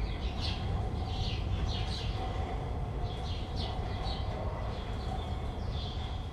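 Small birds chirping, short calls repeated every half second or so, over a steady low background rumble.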